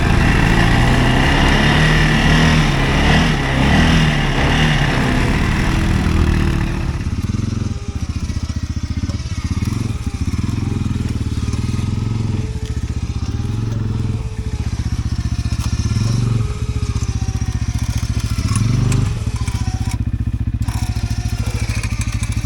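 CFMoto ATV engine running hard for the first several seconds, then dropping to a low steady run with short throttle blips every couple of seconds.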